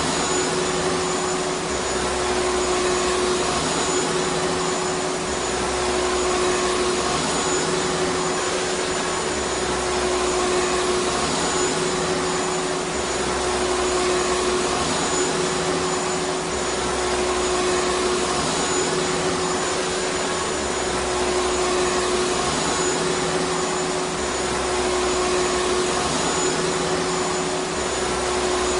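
Vacuum cleaner motor running continuously with a rushing airflow hiss and a steady hum. The low end swells and eases in a slow, even cycle about every two seconds.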